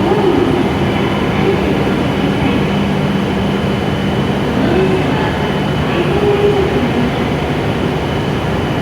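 Platform ambience beside a stopped E7-series Shinkansen train: a steady low hum from the standing train, with faint voices in the background.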